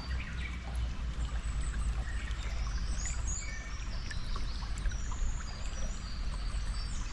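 Steady flowing stream water with birds chirping over it. The birdsong is busiest in the middle few seconds.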